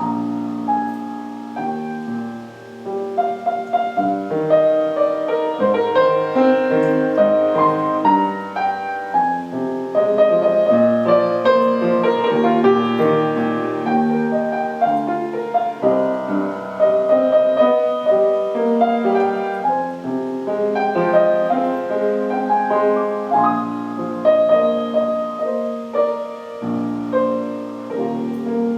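Solo piano playing a slow, flowing piece of held chords and melody notes.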